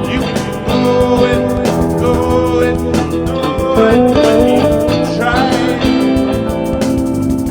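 A band playing improvised music, led by guitar, with sustained notes, some sliding notes and a steady beat.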